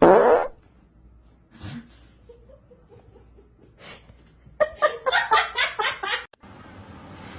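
A person laughing in a quick run of repeated bursts, following a loud short cry with a falling pitch at the start.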